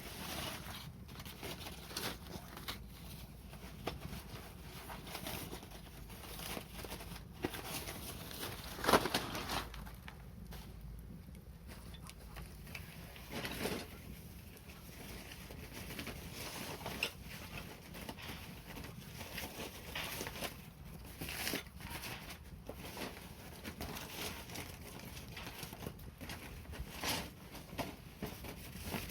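Wood fire crackling with irregular small pops and snaps; the loudest pop comes about nine seconds in, over a low steady hum.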